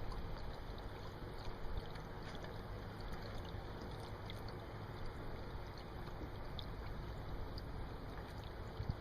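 Water splashing and lapping against a small boat's hull, with wind rumbling on the microphone.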